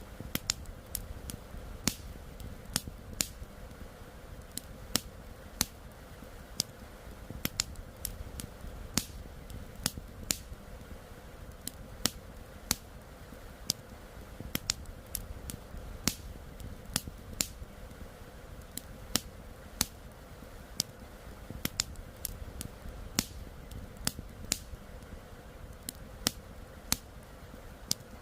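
Wood campfire crackling: sharp, irregular pops and snaps, a few each second, some loud, over a steady low rumble.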